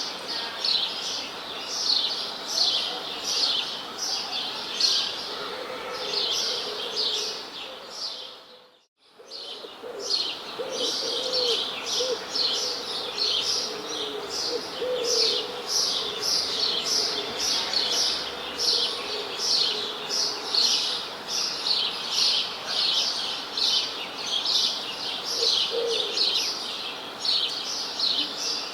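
Many small birds chirping rapidly and continually in high, quick notes, with a few lower cooing calls now and then. The sound fades out briefly to near silence about nine seconds in, then returns.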